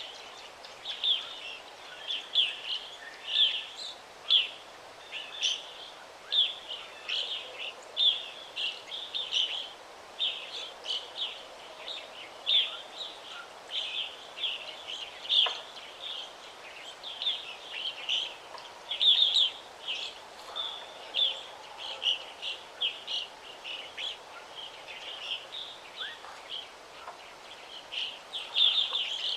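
Several songbirds singing and chirping in a forest, a near-constant stream of short, high chirps and trills over a faint steady background hiss.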